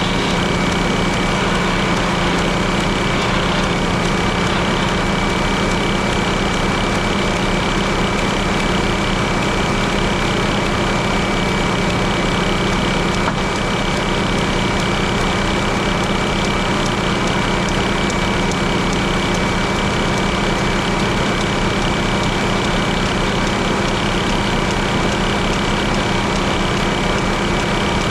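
Frick circular sawmill running steadily, its power unit's engine droning under a steady high whine.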